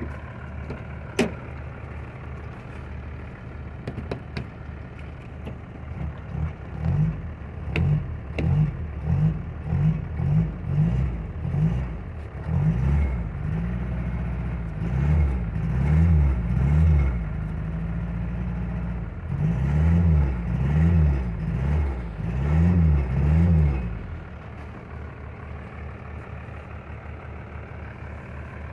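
Toyota Hilux engine idling, then revved in a long run of quick blips with a couple of brief holds at higher revs, before dropping back to a steady idle. A single sharp click sounds about a second in.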